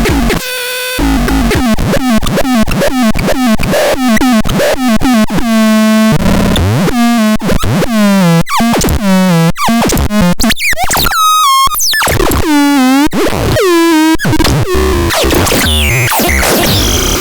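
Electronic synthesizer sounding a rapid run of short, buzzy pitched notes, then swooping tones that bend down in pitch, turning noisier and warbling near the end.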